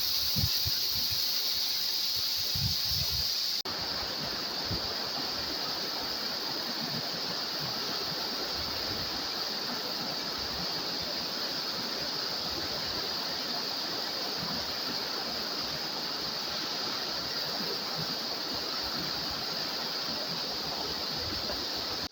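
Waterfall's rushing water, a steady hiss, which changes and drops slightly at an abrupt cut about three and a half seconds in.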